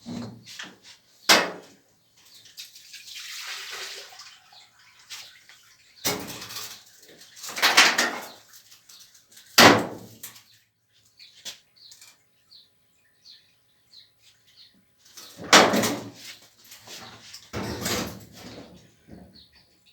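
Irregular knocks, bangs and scraping of hard parts being handled during washing-machine disassembly, with a softer hiss for a couple of seconds about three seconds in.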